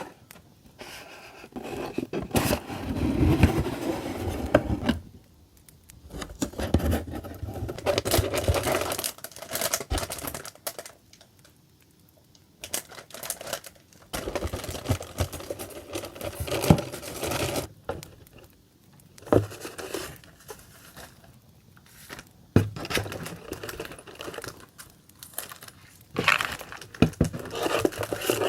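Paper and plastic packaging of a stationery box being handled up close: crinkling, rustling and tearing in bursts of a few seconds, with short quiet pauses and an occasional light click.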